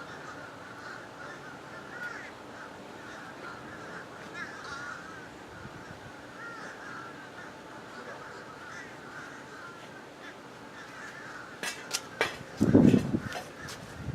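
A flock of birds calling continuously, many short wavering calls overlapping in a steady chatter. Near the end, a quick run of sharp clicks and a loud low thumping burst.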